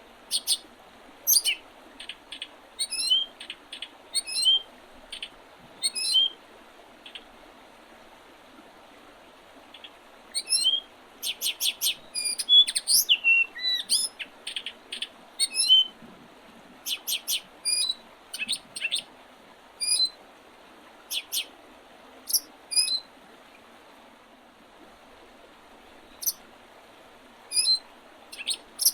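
Wild songbirds singing in early spring: short, sharp, high chirps and call notes come in loose bursts, with a denser run of rapid notes in the middle. A faint steady hiss sits underneath.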